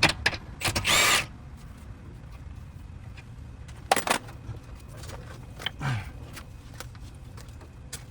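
Workshop noises from car suspension work: a few knocks and clicks, with a short noisy burst about a second in and another around four seconds, over a low steady hum.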